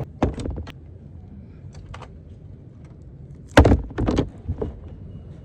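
Car door and interior handling: a few light clicks, then a loud heavy thud about three and a half seconds in, like a car door being shut, followed by a couple more knocks.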